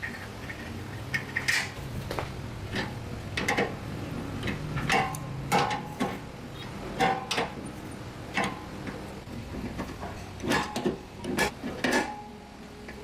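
A series of irregular metallic taps and clinks, some with a short ring, like hand tools knocking and handling sheet metal.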